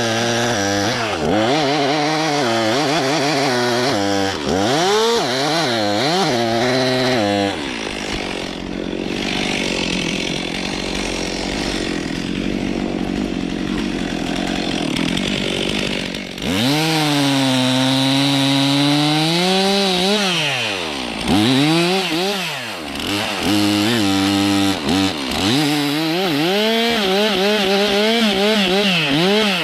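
Stihl MS 362 C two-stroke chainsaw cutting birch wood. The engine pitch repeatedly dips and climbs back as the chain bogs in the cut and revs free. A noisier stretch of sawing sits in the middle.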